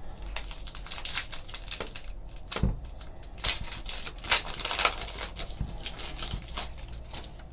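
Trading cards and pack wrappers being handled: a run of quick rustles and soft flicks, with a few sharper ones near the middle.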